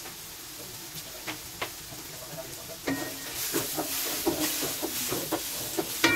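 Ground pork and onions sizzling in a nonstick wok. From about three seconds in, a spatula scrapes and turns the mince in quick strokes and the sizzle grows louder. Near the end comes a sharp knock of the spatula against the pan.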